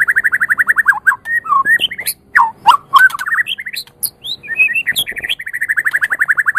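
White-rumped shama (murai batu) singing. A fast run of repeated notes, about ten a second, gives way to a varied phrase of whistles and sharp notes, and then to another fast run.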